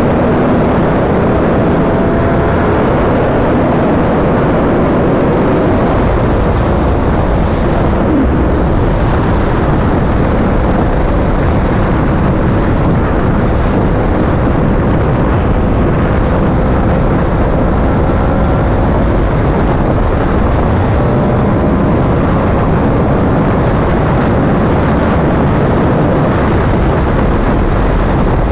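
Yamaha R1 inline-four sport bike ridden at steady speed: a continuous rush of wind and road noise with the engine's note underneath, its pitch drifting slowly.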